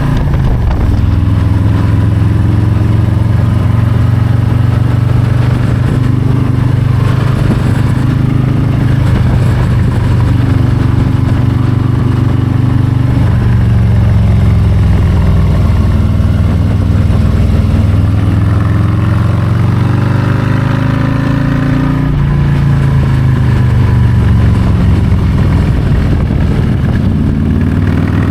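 Harley-Davidson Low Rider ST's Milwaukee-Eight 117 V-twin running under way, loud and unbroken, its note rising and falling repeatedly with throttle and gear changes.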